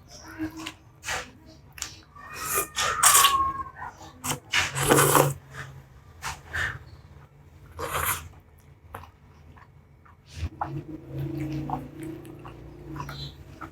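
Close-miked eating of spicy instant noodles: slurping, chewing and wet mouth sounds in irregular bursts, loudest about three, five and eight seconds in.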